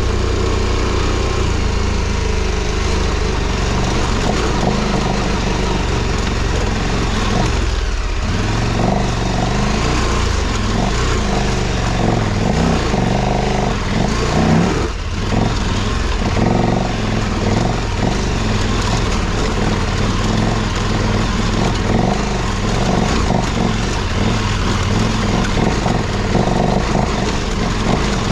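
KTM 1290 Super Adventure R's V-twin engine working hard up a steep, rough off-road climb, its revs rising and falling as the throttle is worked. The engine eases off briefly about a quarter and again about halfway through.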